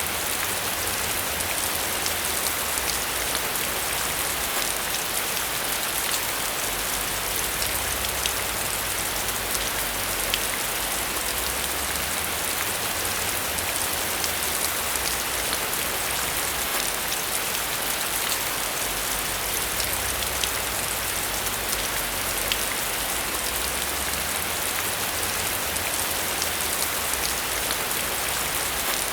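Steady rain falling on a surface: a dense, even hiss with many small drop taps, and a faint low rumble that comes and goes.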